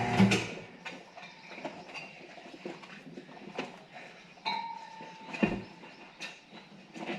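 Scattered light clicks and knocks of hand work on a motorcycle tyre and spoked wheel, with a brief squeak about four and a half seconds in and a louder thump a second later. A steady motor hum cuts off just after the start.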